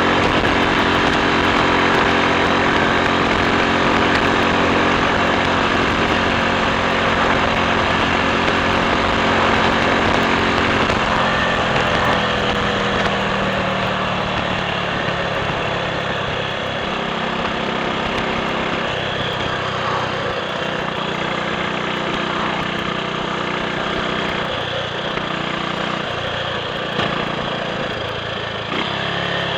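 Triumph Sports Cub's single-cylinder four-stroke engine running steadily as the motorcycle is ridden; about eleven seconds in the engine note falls as it slows, and it then runs lower and less evenly.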